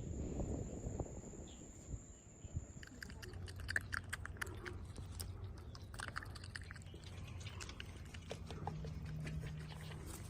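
An animal biting and chewing food, with irregular crunches and clicks through the middle of the clip over a low steady hum.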